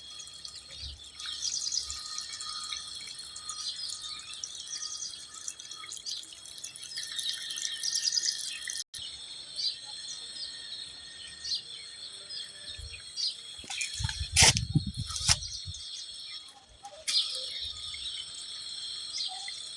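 Several birds chirping and singing in short repeated phrases over a steady high-pitched insect drone. About two-thirds of the way in, a brief low rumble, like wind or handling on the microphone, is the loudest thing.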